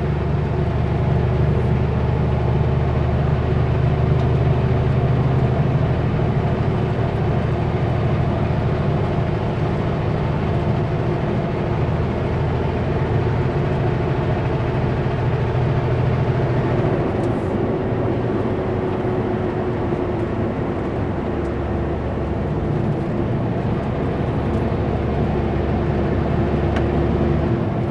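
Kenworth W900L semi truck's diesel engine running steadily under way, with road noise, heard from the cab. The engine note shifts about two-thirds of the way through.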